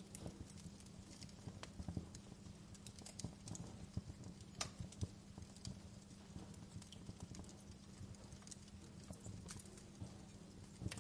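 Wood fire burning in a fireplace: irregular small crackles and snaps over a low steady rumble, with a sharper pop about four and a half seconds in.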